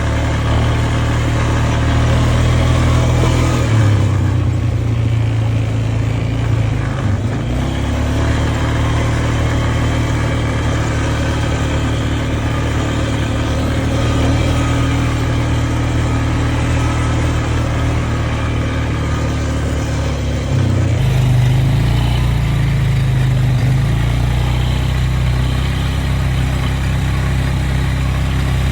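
An engine running steadily with a deep note. Its note shifts briefly about 4 and 7 seconds in and changes abruptly about 21 seconds in.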